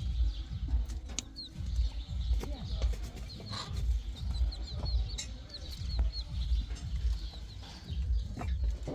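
Small birds chirping, many short quick notes again and again, over a low uneven rumble.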